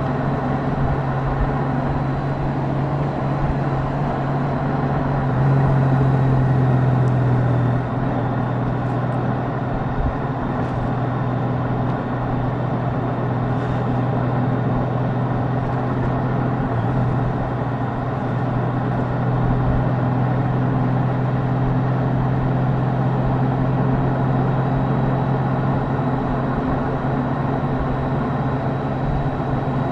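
Honda Gold Wing's flat-six engine running steadily while the bike is ridden. It gets louder for about two seconds, some six seconds in, then settles back.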